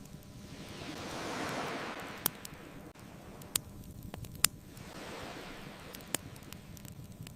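Ocean waves washing in: two rising and falling swells of surf. Four sharp crackles from a wood bonfire cut through it, the loudest about halfway through.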